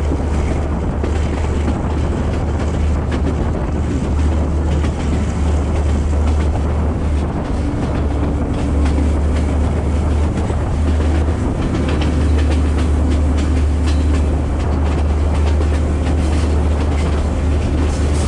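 Sri Lankan S14 class diesel multiple unit running steadily through hill country: a continuous heavy low rumble of the train on the track with faint clicking, heard from a camera held out of the carriage side, with wind on the microphone.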